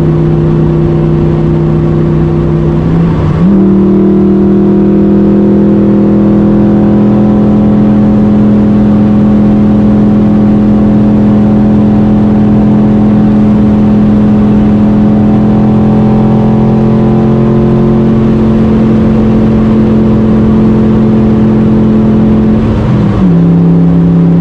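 Ford Coyote V8 of a Factory Five Type 65 coupe, heard from inside the cabin at around 120 mph. About three seconds in, the engine note steps up in pitch as the car drops into fifth gear, then climbs slowly under a long steady pull before falling back in pitch near the end.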